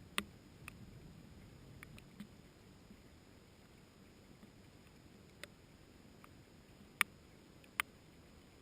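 Scattered raindrops striking leaves close to the microphone: sparse sharp ticks at uneven intervals, the two loudest near the end, over a faint low rumble of the storm.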